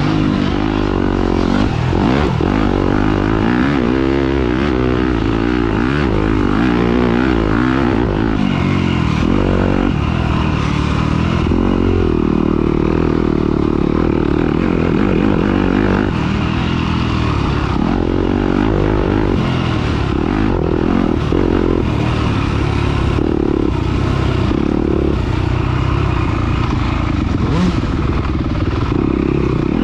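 Dirt bike engine running hard under race load, its pitch rising and falling over and over as the throttle opens and closes, with a few short knocks and rattles late on.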